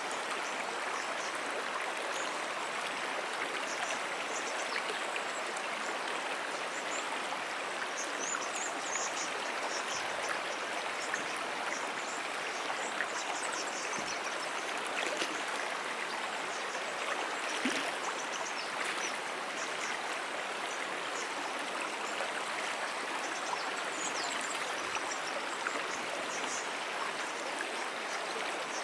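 A small perennial brook running steadily: an even rush of flowing water over its bed.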